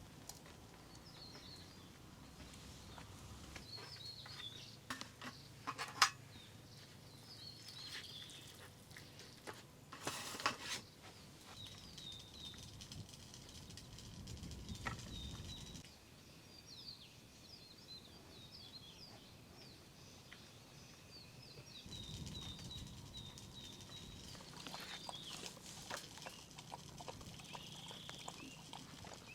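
Small birds chirping in short, quick clusters of high notes, repeated every few seconds, over faint outdoor background noise. A few sharp clicks and a brief rustle of camp handling come through, the loudest click about six seconds in.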